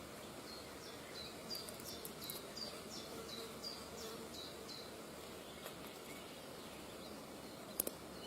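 A bird giving a run of about ten short, high calls, each falling in pitch, roughly two or three a second, over steady outdoor background noise. A couple of sharp clicks come near the end.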